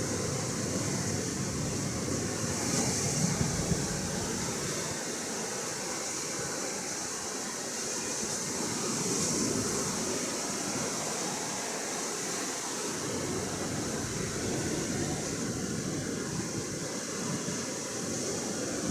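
Atlantic Ocean surf washing against the shore, a steady rush that swells every few seconds, with wind; a low rumble fades out a few seconds in.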